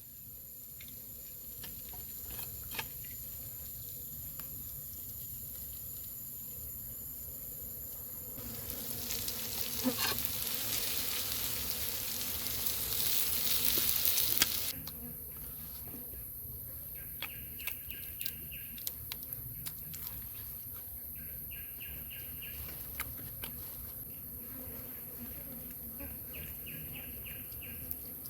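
Steady high-pitched insect drone. About a third of the way in, a loud hiss swells for some six seconds and cuts off suddenly, and a short pulsed call repeats three times in the second half.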